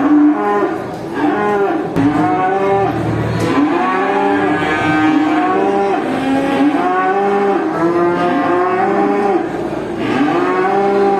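Many cattle mooing at once, calls overlapping continuously, each low moo rising and falling in pitch.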